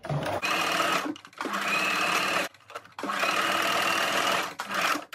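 Electric sewing machine stitching a seam through folded fabric, running in short bursts of a second or so with brief stops between, and a short final burst near the end.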